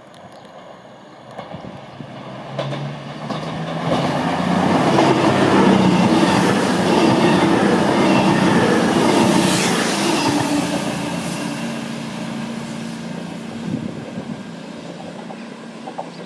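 Passenger train passing on the main line: the rumble and rail noise build over a few seconds, stay loudest for about five seconds, then fade away, with a few sharp clacks of wheels over the rails.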